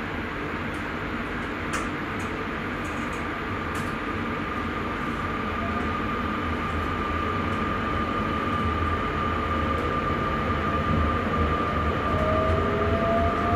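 Electric Sprinter commuter train heard from the driver's cab, running on the track with a steady rumble and a high whine that slowly climbs in pitch. A second, lower rising whine joins near the end as the sound grows louder.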